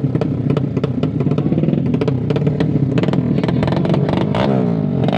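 Drag-race motorcycle engines running hard and crackling, their pitch climbing in repeated sweeps over the last second and a half as they rev up.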